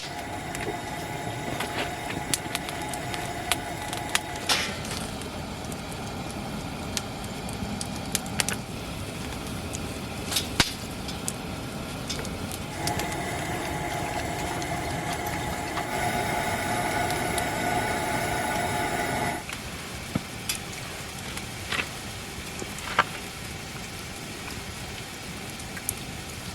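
Campfire burning, with scattered sharp crackles and pops over a steady noise. A humming drone with a few steady tones runs under it, stopping after about four seconds, coming back midway through and cutting off suddenly about two-thirds of the way in.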